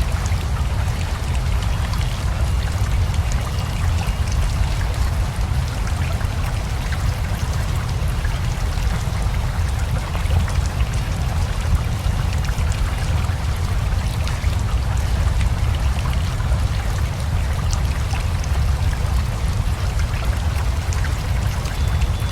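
Steady rain mixed with a rushing river: an even, unbroken wash of water noise with a deep low rumble underneath.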